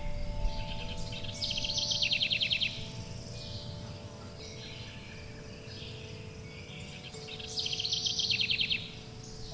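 A songbird singing a fast trilled phrase twice, about six seconds apart, with fainter chirps between. Under it, wind chimes ring in long, steady overlapping tones over a low background hum.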